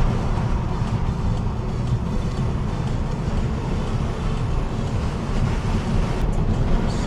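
Steady low rumble of a car driving along a road, with road and engine noise filling the cabin.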